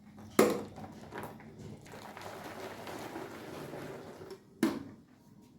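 Household items being handled in a kitchen: a sharp knock shortly after the start, a lighter one, a couple of seconds of steady shuffling and rubbing noise, then another sharp knock near the end, like drawers, containers or fridge parts being set down and moved.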